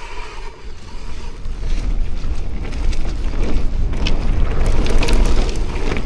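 Wind buffeting the microphone and mountain-bike tyres rolling on a dirt trail during a fast descent. Short clicks and rattles from the bike come over bumps, and the noise grows louder toward the end.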